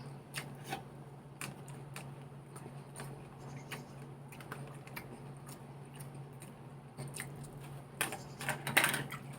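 Salad being eaten: scattered sharp clicks and taps of a utensil against a plastic takeout container, with a louder burst of clattering near the end.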